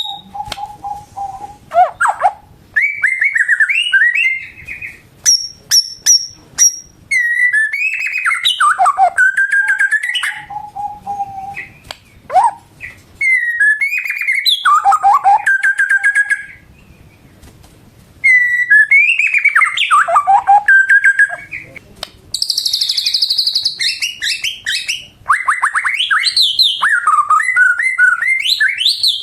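White-rumped shama singing a loud, varied song of clear whistles, rising and falling phrases and rapid trills, pausing for about two seconds past the middle before going on.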